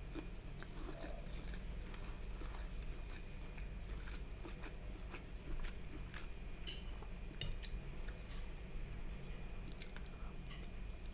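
Close-miked mouth sounds of someone chewing and biting prawn fried rice, with many short, scattered clicks over a low steady hum.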